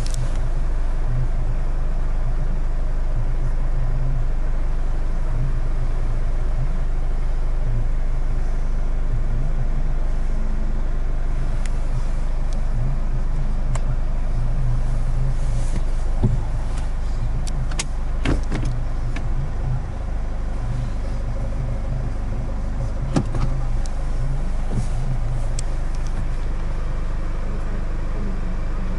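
Infiniti Q50 2.2d's four-cylinder diesel engine idling steadily, heard as a low hum inside the cabin, with a few light clicks in the second half.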